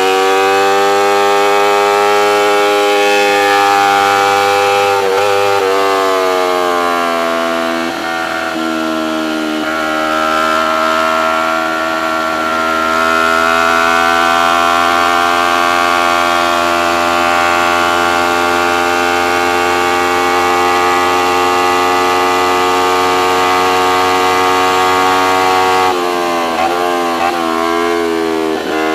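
Motorcycle engine run hard at high revs on track. Its pitch dips and climbs back at gear changes a few seconds in, holds steady and high through a long stretch, then falls in a quick series of downshifts with short throttle blips near the end.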